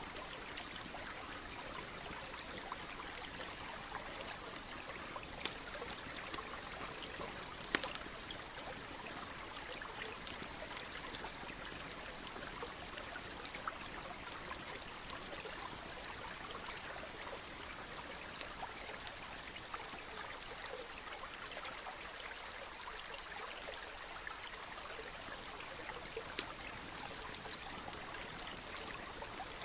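A stream runs with a steady rushing, with a campfire crackling over it in frequent sharp pops. A cluster of louder pops comes about eight seconds in.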